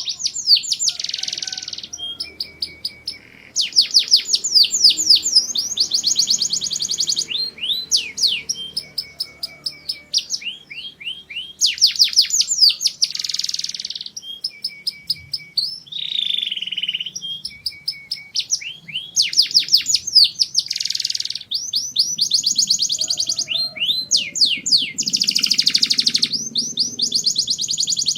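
Male canary singing a long, continuous song of fast repeated phrases: rapid trills of quick falling notes, buzzy rolls and short high tours, one after another with brief pauses between them.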